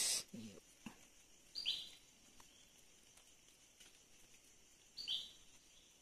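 A bird calling twice, about three and a half seconds apart, each call a short high whistle that slides quickly downward.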